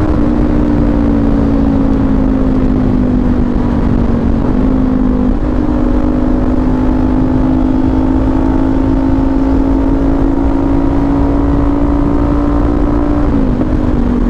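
Kawasaki Ninja 400 parallel-twin engine with an SC Project exhaust, running under way at a fairly steady speed. Its note drifts slowly, with brief shifts in pitch about five seconds in and again near the end, as throttle or gear changes.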